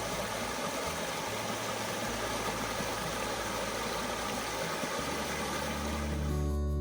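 Steady rush of creek water, fading out near the end, over soft background music.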